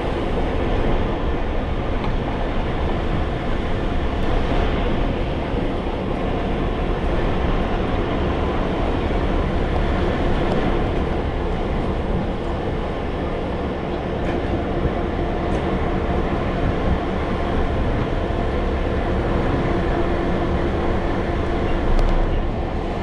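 Heritage passenger train in motion: the steady rumble and rattle of the carriage running on the rails, heard from inside the guard's compartment.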